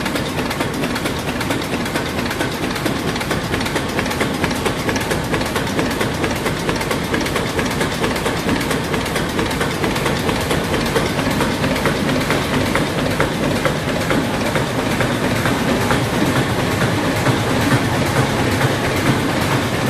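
Stationary engines running in an engine house, a steady, dense mechanical clatter of rapid ticks that grows slightly louder toward the end.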